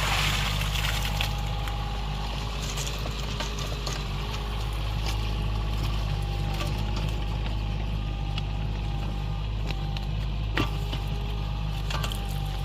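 Excavator engine running steadily while digging a trench, with a single sharp knock about ten seconds in.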